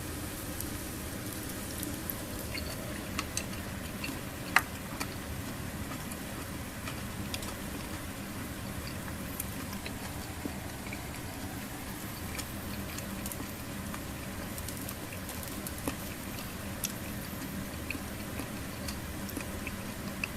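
A small fire crackling in a mini fire pit. Scattered pops and ticks, with one louder pop about four and a half seconds in, run over a steady hiss.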